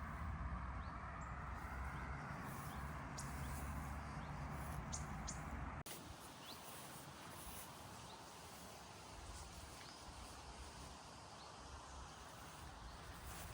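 Outdoor background noise with a low rumble and a few short bird chirps. About six seconds in the sound cuts abruptly to a quieter background.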